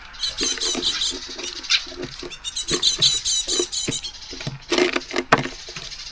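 Small songbirds at a garden seed feeder: two fast runs of high, evenly repeated chip calls, with sharp taps and clicks of the birds pecking and hopping on the feeder.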